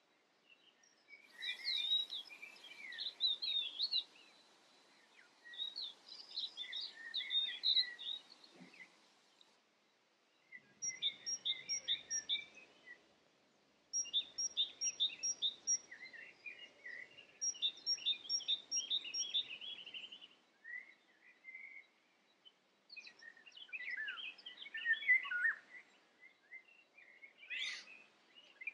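Birds singing in phrases of quick chirps and trills, each a few seconds long, separated by short pauses.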